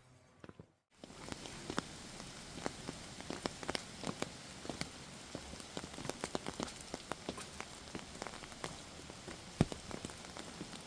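Rain falling: a steady hiss with irregular pattering drops, starting after a cut about a second in, with one sharper knock near the end.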